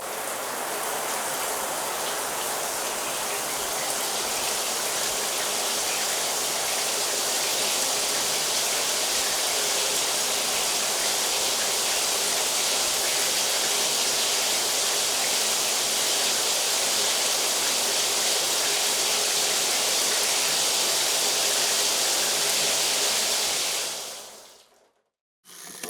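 Water running steadily in a loud, even rush, fading out near the end.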